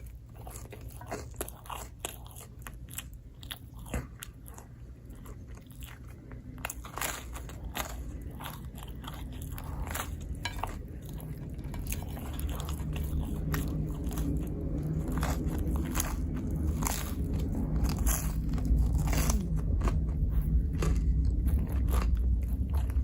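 Close-miked eating: bites and chewing of pizza, with sharp crunches scattered throughout. A low hum comes in about halfway and grows louder toward the end.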